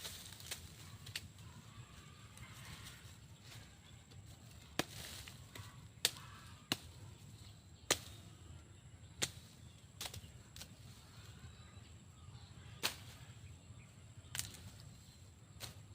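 A series of sharp, short knocks or cracks, about a dozen at irregular intervals, over a faint low hum.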